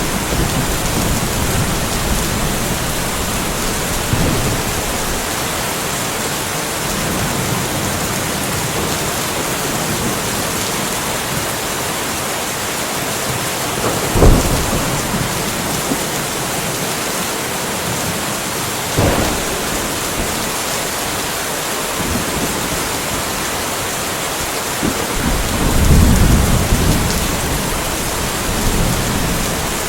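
Steady rain falling in a light thunderstorm, an even hiss throughout. Thunder breaks in with two sharp claps, about 14 and 19 seconds in, and a longer low rumble swells later on, around 26 seconds in.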